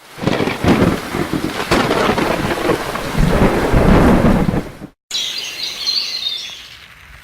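Rumbling thunder with rain, loud, for about five seconds before it cuts off abruptly. A short, fainter high twittering sound follows.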